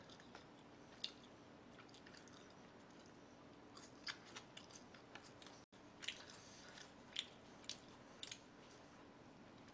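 A person chewing food close to the microphone: a dozen or so scattered soft mouth clicks and smacks against faint room hiss.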